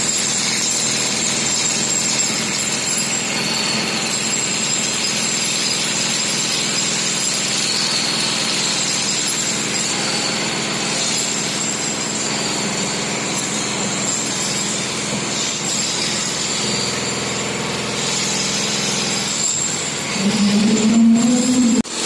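Steady engine noise running throughout, with a louder droning tone that rises slightly in pitch about twenty seconds in.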